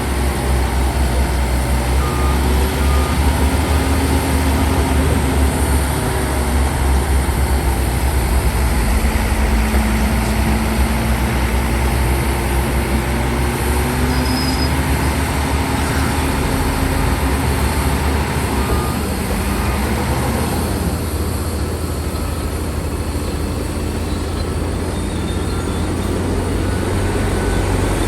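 Heavy diesel engine of earthmoving machinery running hard under load: a loud, deep rumble whose pitch rises and falls slightly. The noise eases a little about twenty seconds in.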